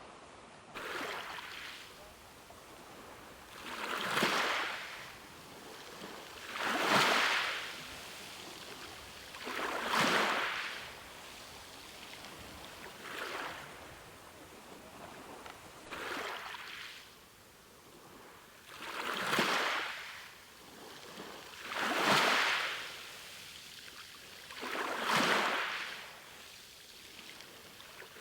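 Ocean waves washing in, with a surge of surf about every three seconds that swells and fades over a second or two, and a soft hiss between.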